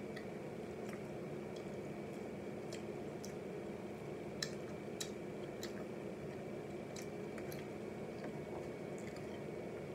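A person chewing a breaded spicy chicken nugget with soft wet mouth sounds and a few faint clicks, over a steady low room hum.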